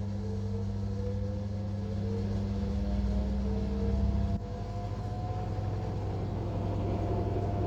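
Air conditioner unit running with a steady low hum and a faint whine that slowly rises in pitch; the low hum drops abruptly about four and a half seconds in.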